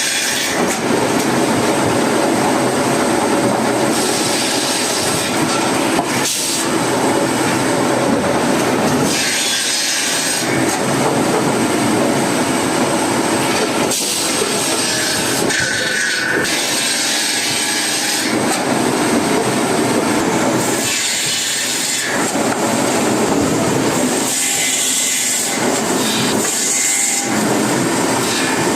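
Wood-cutting saw blade running and cutting wood, a loud steady machine noise whose tone shifts every few seconds.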